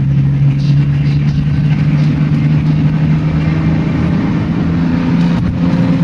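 Car engine and road noise heard from inside the moving car: a steady drone whose pitch creeps slightly upward as the car gathers speed.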